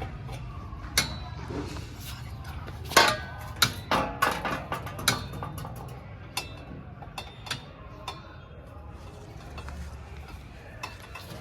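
Metal clinks and knocks as a motorcycle's short-bottle silencer is worked onto its exhaust bend pipe, a quick cluster of sharp, ringing taps in the middle with scattered single clicks after.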